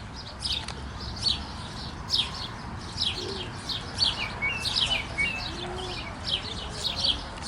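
Sparrows chirping: a steady run of short, high, downward-sliding chirps, about two to three a second.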